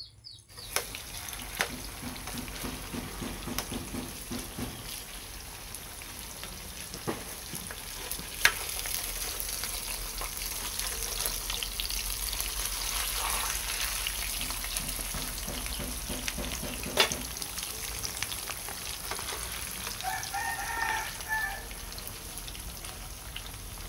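A soy-and-tofu vegetarian meat patty shallow-frying in oil in a frying pan, giving a steady sizzle as it is fried to a light golden colour. A metal spoon stirring and turning the pieces clicks against the pan a few times.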